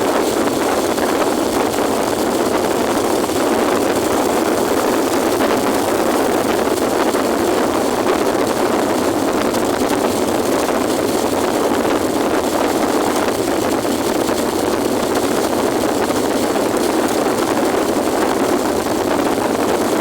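Steady rush of strong wind over the microphone on a moving motorcycle, with the ride's engine and road noise blended in. There are no breaks or changes in it.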